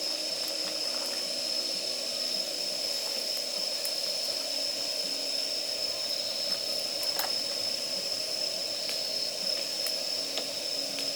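Damp firewood burning in a campfire: steady hissing and sizzling as moisture boils out of the wood, with scattered small crackles.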